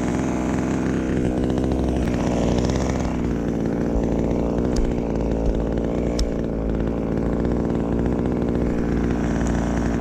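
Two-stroke chainsaw engine running steadily at an even pitch.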